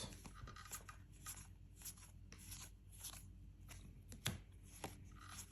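Faint, irregular soft clicks and brushing of trading cards being slid and flipped one by one in the hands, with one sharper tap about four seconds in.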